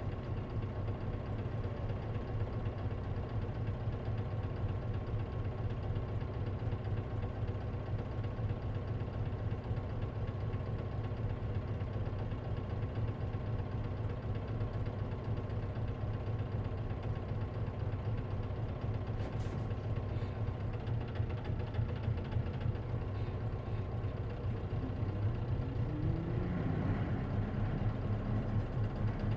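Isuzu KC-LV380N city bus engine idling steadily, heard from inside the cabin. About 25 seconds in it begins to rise in pitch as the engine revs up.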